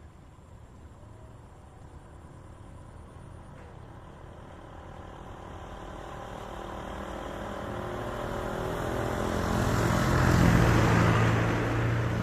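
A motor vehicle's engine approaching and passing, growing steadily louder, loudest about ten and a half seconds in, then starting to fade.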